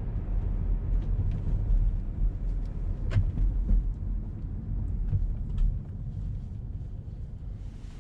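Road noise inside a moving car: a steady low rumble of engine and tyres, with a few short clicks and knocks, the sharpest about three seconds in.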